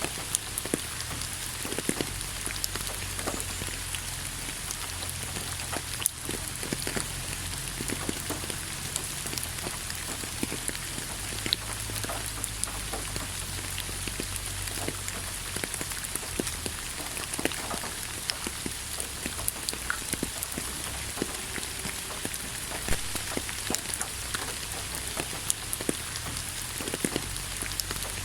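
Steady rain falling on a surface, an even hiss with many separate drops ticking and pattering throughout, over a low rumble.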